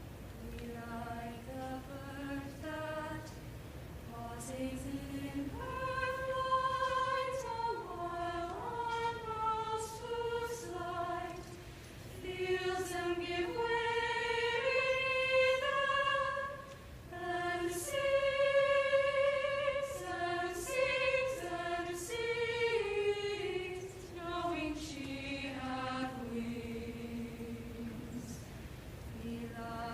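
Soprano-alto choir singing in parts, building from soft sustained opening notes to a fuller, louder sound in the middle, with a brief break about two-thirds of the way through before the singing continues.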